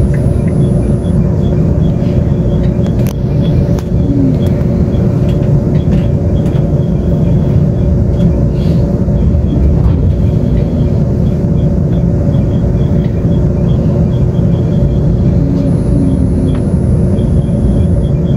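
Taiwan Railways Tze-Chiang express train running at speed, heard from inside the carriage: a steady, loud rumble of the wheels and running gear with a constant low hum.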